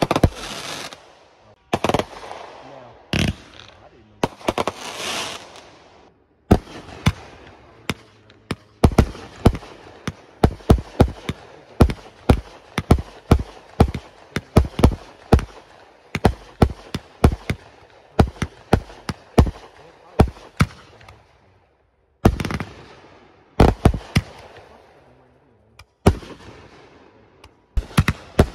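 Fireworks going off: a long run of sharp bangs with crackling between them, coming several a second through the middle stretch and twice dropping off briefly before starting again.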